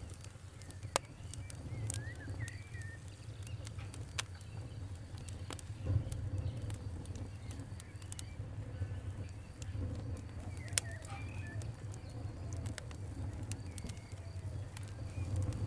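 Wood fire crackling, with scattered sharp pops over a steady low rumble; the loudest pops come about a second in, at the middle and about two-thirds of the way through. Faint bird chirps sound now and then.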